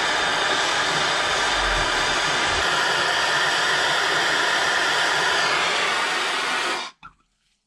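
Gas blowtorch flame burning steadily, heating a motorcycle brake caliper to free seized, snapped bleed nipples, then shut off suddenly about seven seconds in.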